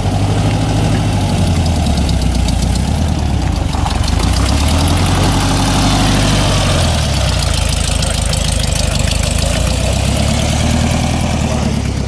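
Old car's engine running loud as it drives off, its pitch rising and falling with changes in engine speed; the exhaust sounds awesome to the onlookers.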